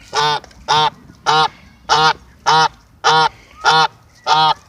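Domestic goose honking eight times in a steady series, about one honk every 0.6 s.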